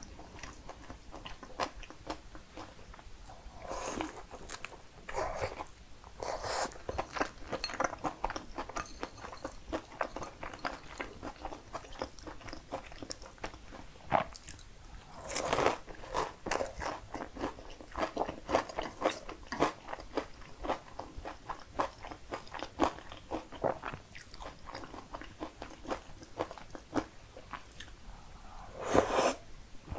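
Close-miked eating: a person chewing and biting food, with many small mouth clicks throughout. Louder bites come a few times, about a quarter, half and near the end of the way through.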